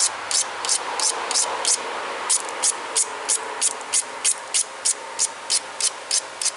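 Edge of a tiger chert flake point being ground against an abrasive in quick back-and-forth strokes, about three high-pitched rasps a second with a short pause about two seconds in. It is edge grinding before notching, dulling the sharp edge and ears so the base can take the pressure of notching.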